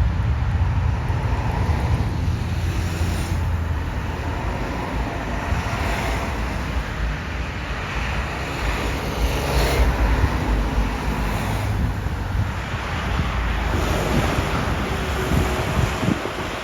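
Jet airliner engines rumbling steadily at a distance, mixed with wind buffeting the microphone.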